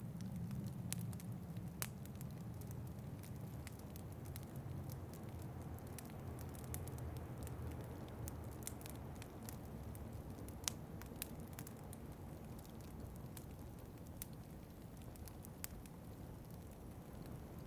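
Wood fire crackling in a fireplace, with irregular sharp pops, one louder than the rest about two-thirds of the way through, over a steady low rumble of wind.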